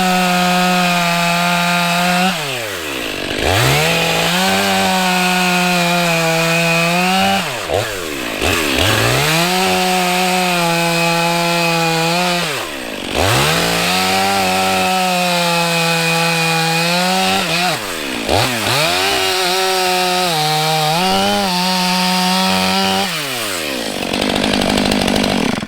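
Stihl MS 500i fuel-injected two-stroke chainsaw bucking a log into firewood rounds. It runs at full throttle through five cuts, falling briefly to idle and revving back up between them, then drops to idle near the end.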